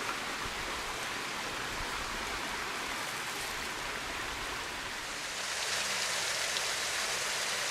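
Small waterfall and stream in a ravine, a steady hiss of running water that gets louder about five and a half seconds in.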